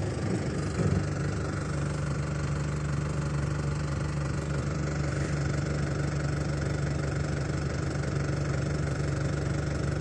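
Car engine running at a steady speed, a constant low hum.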